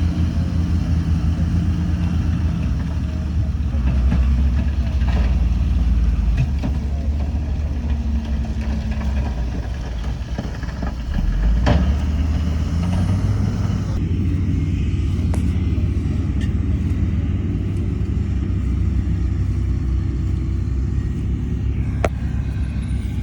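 Heavy diesel earthmoving machinery running with a steady low rumble, with a couple of sharp knocks, one around the middle and one near the end.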